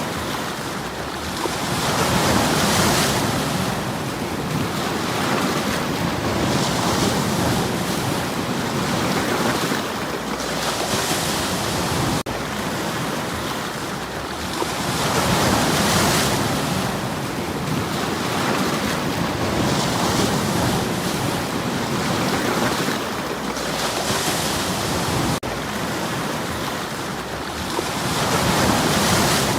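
Sea waves washing in against a stony shore, the surf swelling and falling back every four or five seconds.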